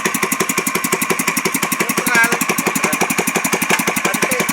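Pro-Quip 18 hp boat engine running steadily at idle, a rapid even chugging of about nine beats a second.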